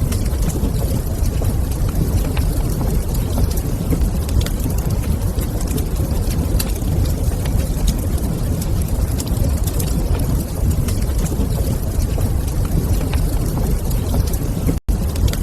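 Wood fire burning in a fireplace: a steady low rumble with many small sharp crackles and pops scattered through it. The sound cuts out for a split second near the end.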